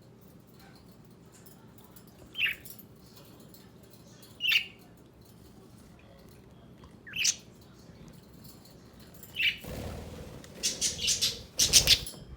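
Budgerigars (pet budgies): four short single chirps, about two to three seconds apart. Then, in the last few seconds, a louder flurry of wing flapping and rustling.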